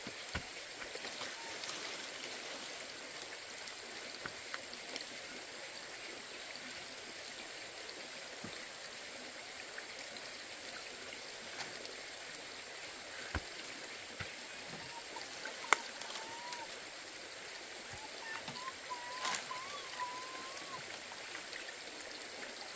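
Steady rush of running water, with a few scattered sharp knocks and, near the end, a faint wavering whistle.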